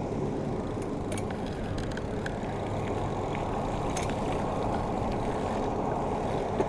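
Steady rumble of bike tyres rolling on wet pavement while riding, with a few faint light clicks.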